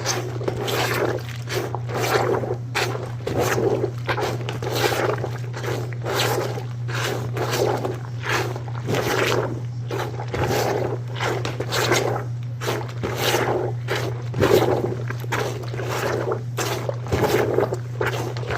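A hand-plunger portable washer being pumped up and down in a bucket of soapy water and towels. It makes a rhythmic sloshing and squishing, about one and a half strokes a second.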